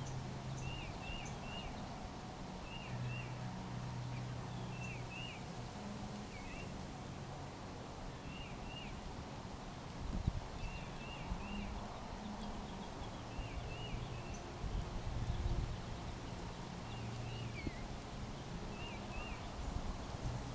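A small songbird calling over and over, short chirps in twos and threes about every second and a half, over a faint low hum.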